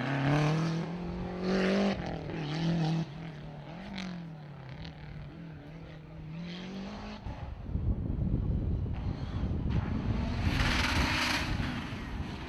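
Rally car engine revving up and down as the driver works through the gears, then a louder rushing noise with no clear engine note, swelling into a hissing burst near the end.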